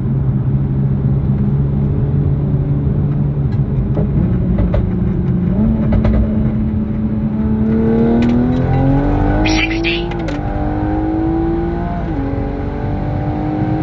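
Heavily modified turbocharged Toyota Supra (about 700 wheel horsepower) cruising, then accelerating hard: the engine note climbs steadily, drops at an upshift about ten seconds in with a brief hiss, and drops again at a second shift about two seconds later before climbing once more.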